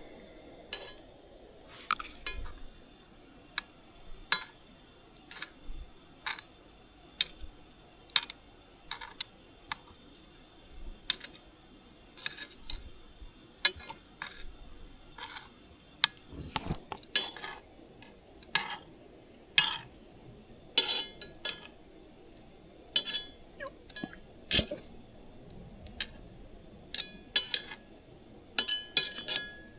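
Light metallic clinks and knocks, as of camp cookware and utensils being handled, coming roughly once a second, some ringing briefly.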